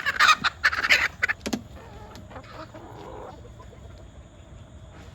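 Backyard chickens clucking: a quick run of loud calls in the first second and a half, then softer clucking that dies away a little after three seconds in.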